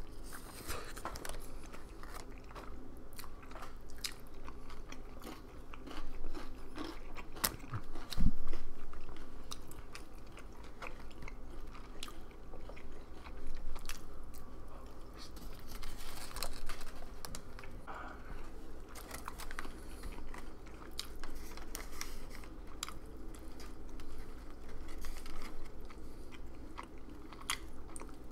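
Close-miked chewing and biting of a burrito, with wet smacking and small crunches throughout. A single loud thump comes about eight seconds in.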